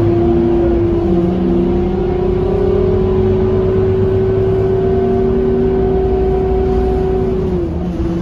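Scania K230UB city bus's 9-litre five-cylinder diesel running under way, with a strong steady whine over the engine rumble that rises slowly in pitch as the bus gathers speed and then drops away near the end.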